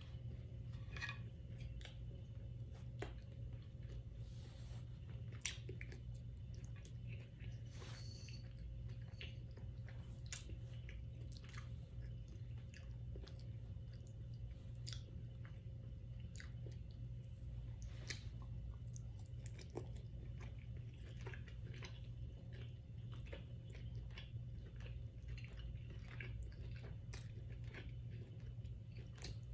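Close-miked mukbang chewing: a person eating steak and rice, with many short wet smacks and clicks of the mouth over a steady low hum.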